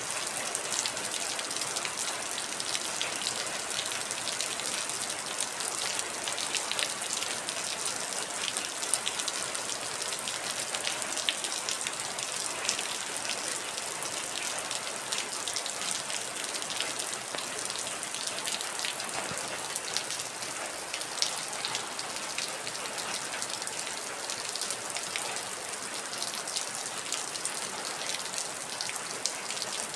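Heavy rain falling steadily, a continuous hiss with many small drop impacts pattering on a surface throughout.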